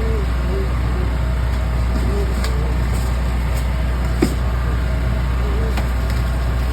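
Steady low machine hum from the food truck's running equipment, with scattered light clicks and one sharper click about four seconds in.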